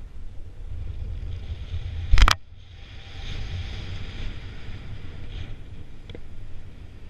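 Wind rushing over the microphone in flight, a steady low rumble with hiss, broken by one loud sharp knock about two seconds in.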